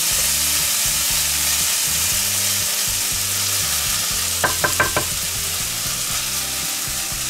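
Mushrooms, tomatoes, spring onions and bacon sizzling steadily in a cast-iron skillet as they are stirred with a wooden spatula, with a few short, sharper scrapes a little past halfway.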